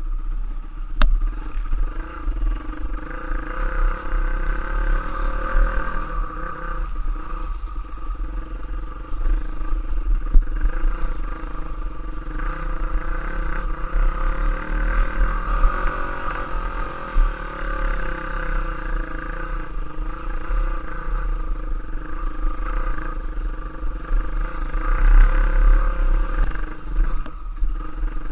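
Off-road trail motorcycle engine running continuously with a strong low rumble, its pitch shifting a little with the throttle.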